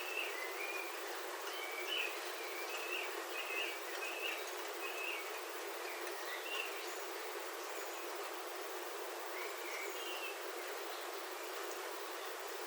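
Rain falling steadily on a roof, heard from inside, with a bird chirping short repeated calls over it, most often in the first half and again briefly near the end.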